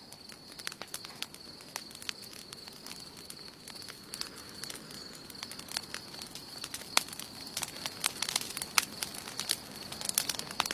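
Wood campfire crackling, with irregular sharp pops and snaps that come thicker and louder in the second half.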